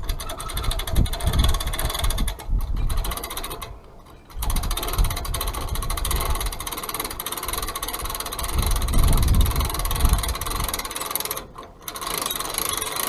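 Winch on a half-ton truck crane running under load, winding in its cable with a fast, steady mechanical clatter. It stops briefly twice, about four seconds in and about eleven and a half seconds in, then starts again.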